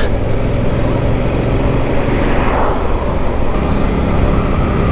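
Motorcycle engine running steadily at riding speed under a constant rush of wind on the microphone. A louder rush of noise swells and fades about halfway through.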